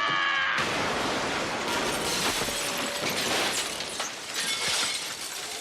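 Cartoon crash sound effect: a scream cuts off about half a second in and gives way to a long, loud wash of crashing noise lasting about five seconds.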